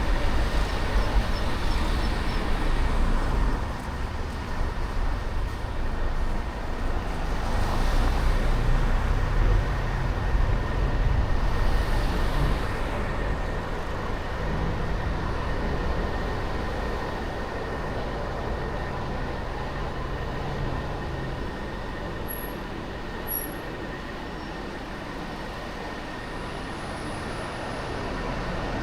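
City traffic and road noise heard while driving: a low rumble of engines and tyres, heaviest in the first dozen seconds, then settling to a steadier, quieter level.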